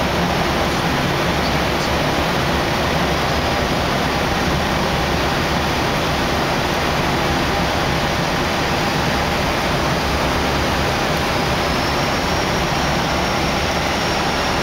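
Steady flight-deck noise inside an Airbus A319 on approach: an even rush of airflow with the hum of engines and air systems underneath, with no change in level.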